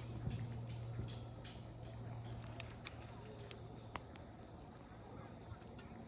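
Wood campfire crackling, with scattered sharp pops of burning firewood, over steady pulsing chirps of crickets and a low steady hum.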